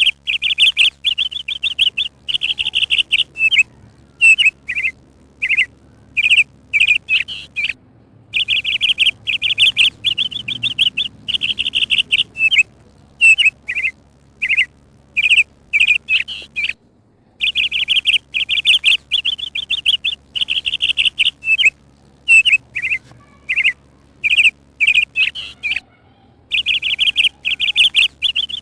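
Small songbird chirping in fast trills and short separate high notes. The same sequence of calls repeats about every nine seconds.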